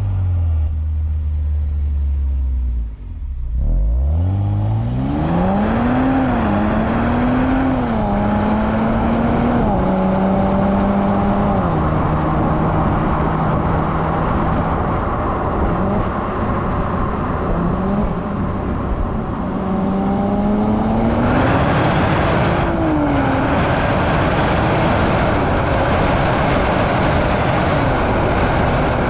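Nissan Z's twin-turbo V6 on the move: revs falling at first, then after a brief drop-out climbing under acceleration with several stepwise gear changes, and rising again later. A steady hiss of road and wind noise runs underneath.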